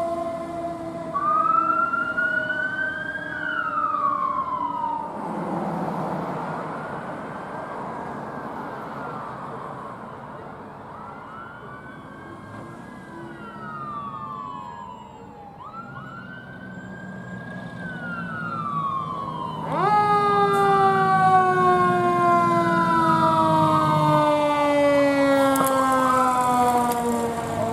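Fire apparatus sirens on an emergency response: an electronic wail sweeping up and down, with a broad rumble of a passing heavy vehicle about five seconds in. About twenty seconds in, a louder siren jumps up sharply and then winds slowly down in pitch, the run-down typical of a mechanical coaster siren, while the wail goes on over it.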